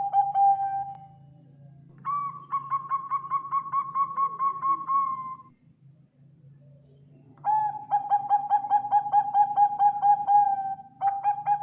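Bangkok-type zebra dove (perkutut) singing: repeated phrases of quick, evenly spaced staccato coos, each phrase lasting about three seconds. One phrase is pitched a little higher than the others. A short pause separates the phrases, and a new phrase begins near the end.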